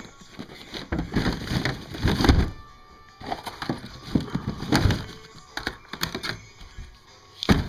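Plastic bait bags and tackle boxes being rummaged and handled in a boat's storage compartment: irregular rustling and hollow knocks of plastic, with a sharper knock near the end.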